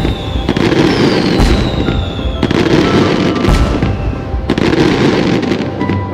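Fireworks bursting about once a second, each burst followed by a long crackling shower, with high falling whistles between them. Music plays faintly underneath.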